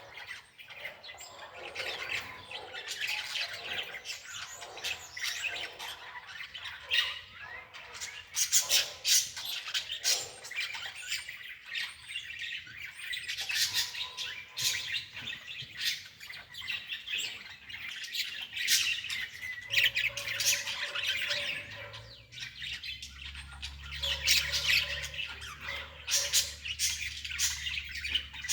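Birds chirping and squawking continuously in many short calls. A low steady hum sets in about two-thirds of the way through.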